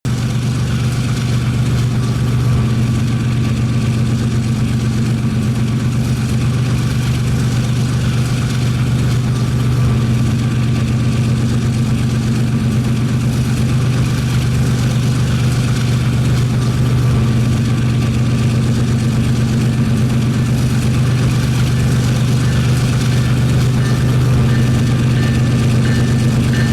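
Diesel locomotive engine running steadily, a deep even drone with no change in pitch or level.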